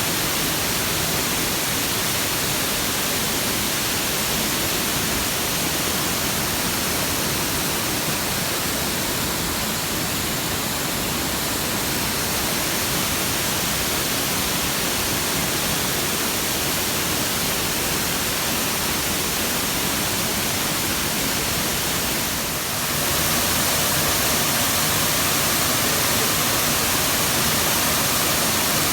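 Steady rush of water falling from a wide curtain waterfall. It dips briefly about 22 seconds in, then carries on a little louder.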